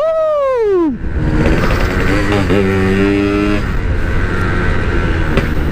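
Two-stroke Yamaha RX-King engine under way: its pitch falls steeply over about the first second as the revs drop off, then it runs on at a steadier pitch with road noise.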